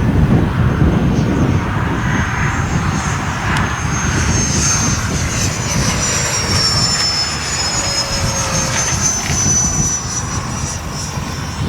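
Electric ducted-fan model F-4 Phantom jets flying by, a high fan whine that rises and falls in pitch as they pass.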